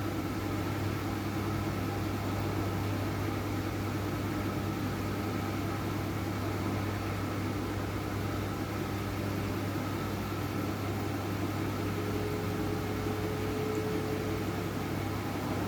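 Front-loading washing machine running steadily with a blanket load, a constant low motor hum over an even whir of the turning drum. A faint higher tone joins for a couple of seconds near the end.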